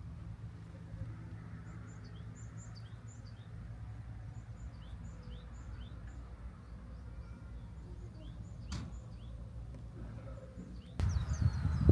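Small birds chirping, short falling high notes repeated again and again, over a steady low rumble. About eleven seconds in, the rumble suddenly grows louder and the chirping busier.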